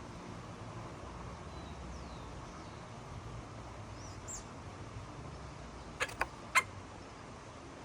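Small birds giving a few faint, high chirps and short gliding whistles over a steady low hiss. About six seconds in come three sharp clicks in quick succession, the last the loudest.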